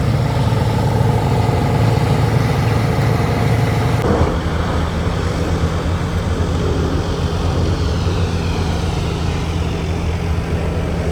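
Logging truck's diesel engine running steadily. The sound changes abruptly about four seconds in, as at a cut between two shots of the running truck.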